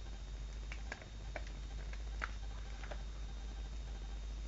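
A few faint, sharp clicks and taps, irregularly spaced, over a steady low hum: light handling noise.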